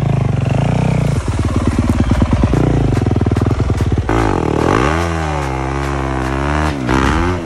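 Dirt bike engine running, first at low revs with a rapid even beat, then revved, its pitch rising and falling several times in the second half.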